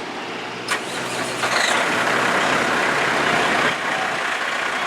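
Diesel truck running close by, growing louder for about two seconds in the middle before settling back.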